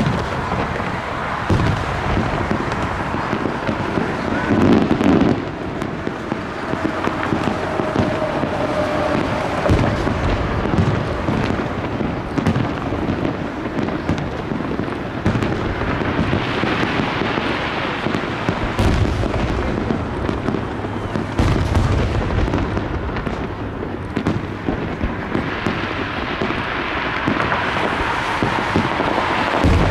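Fireworks display: a continuous dense crackle of pops and bangs, with several heavier deep booms in the second half.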